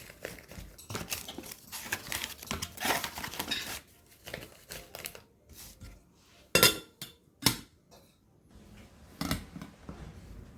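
Kitchen items being handled: a few seconds of rustling and crinkling, then three sharp knocks or clinks of objects being set down.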